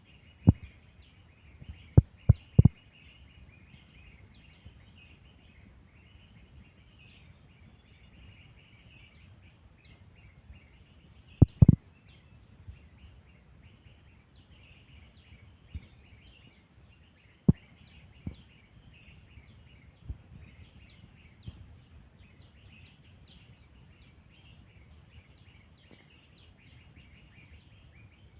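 Many small birds chirping continuously in high, rapid, overlapping chirps. A few sharp knocks or thumps cut through, the loudest about twelve seconds in.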